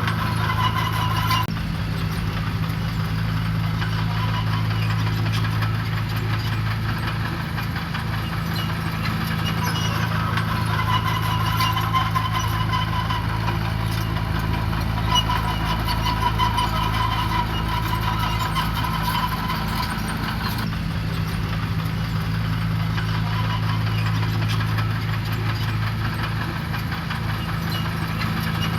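Diesel engine of heavy earthmoving equipment running steadily, with a faint wavering whine above the low hum and a slight change in tone about two-thirds of the way through.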